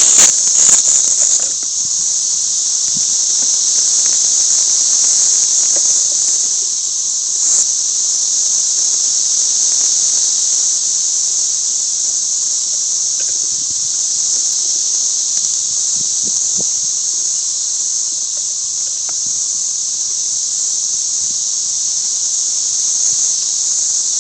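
Periodical cicadas chorusing: a loud, steady, high-pitched buzz that never lets up. A few clicks sound in the first second or so.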